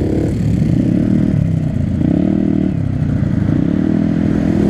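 A vehicle engine running loud, its pitch rising and falling repeatedly as the revs change.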